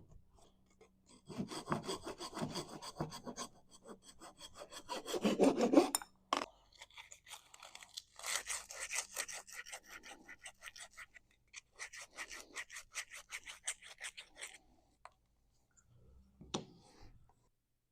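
Hand saw cutting through wood in several bouts of quick back-and-forth strokes, with short pauses between them, then a single knock near the end.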